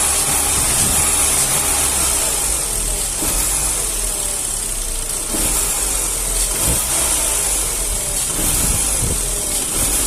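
Chevrolet Astra engine running, revved and let back to idle a few times. The faint engine noise being sought is hard to bring out; the mechanic puts it down to worn piston-pin (wrist-pin) clearance.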